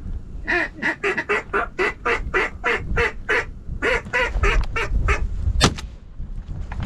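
Mallard-style quacking in a fast, evenly spaced run of about a dozen quacks, a brief pause, then about six more, followed by a single sharp click. Wind rumbles low on the microphone throughout.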